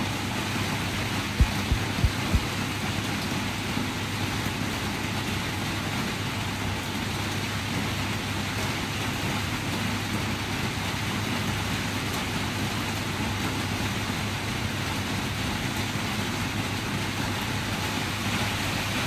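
Steady rain, an even hiss that does not change. A few dull low thumps come about two seconds in.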